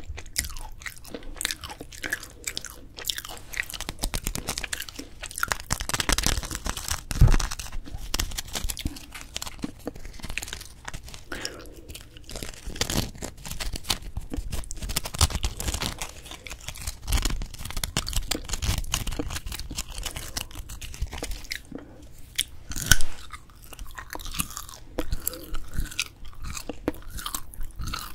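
Close-miked chewing and crunching of grilled dried filefish fillet (jwipo), an irregular run of small crisp crunches and mouth sounds, with a couple of louder crunches about a quarter and four-fifths of the way through.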